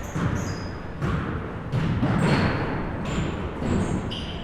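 Basketballs bouncing on a gym floor, several separate thuds ringing out in the hall. Short high squeaks, typical of sneakers on the hardwood, come between them.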